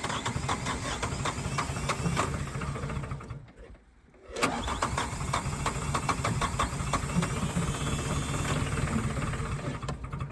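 Vehicle engine being cranked by its starter motor in freezing cold without catching, a quick even chug of compression strokes; the cranking stops for about a second, then a second attempt starts and keeps turning over.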